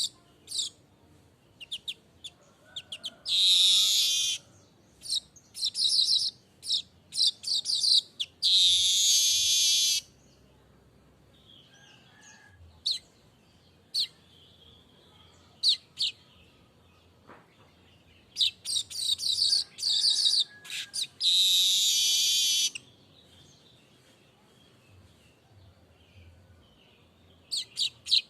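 Streaked weaver singing: bouts of rapid high chirps that run into loud, harsh buzzing phrases, three times, with quiet gaps of several seconds between the bouts.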